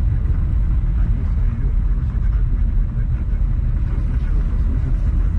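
Steady low rumble of a motor vehicle in motion, with no distinct events.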